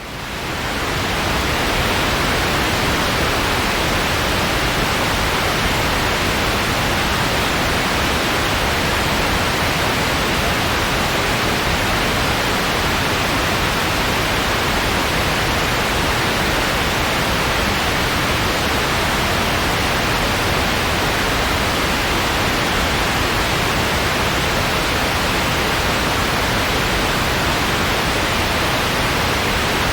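Steady white noise: an even, unchanging hiss that fades back up to full level over the first second or two.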